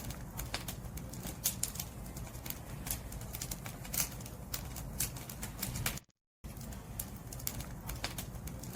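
Firewood burning in a campfire, crackling with many sharp, irregular pops over a low rumble of the fire. The sound cuts out completely for a fraction of a second about six seconds in.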